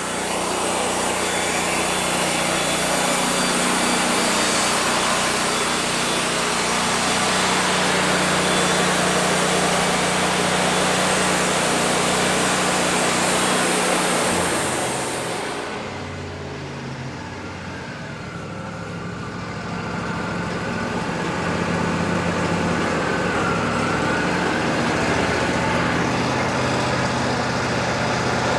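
Wood-Mizer LT40 band sawmill running, its band blade cutting through cedar with a dense hiss over the steady engine. About halfway through the hiss stops suddenly and the level drops, leaving the engine running lighter with a faint gliding whine, then it grows louder again near the end.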